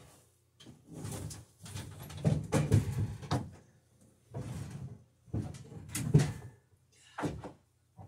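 Irregular knocks, clatter and scraping of wooden parts and hand tools being handled, in uneven bursts with short pauses between them.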